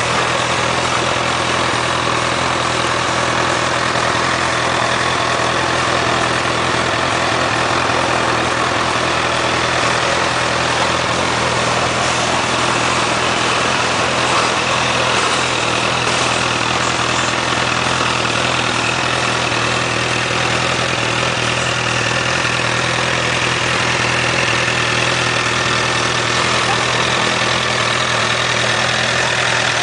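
2008 Honda CBR1000RR's inline-four engine idling steadily, with no revving.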